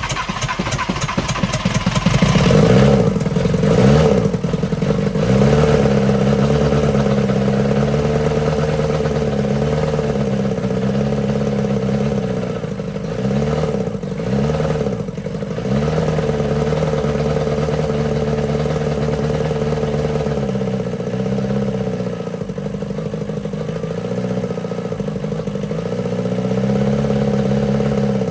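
VW Rabbit pickup's 1.6 diesel engine being cranked and catching about two seconds in, the first start of an engine assembled from donor parts. Its revs dip and recover a few times, then it runs steadily.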